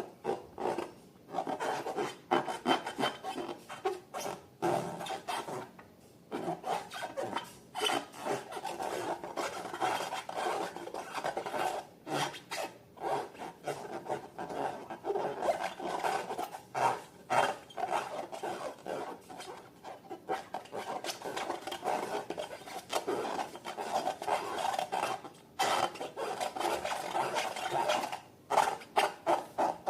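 Slime being mixed and worked by hand: a dense, irregular run of small sticky clicks and rubbing noises, with a few short pauses.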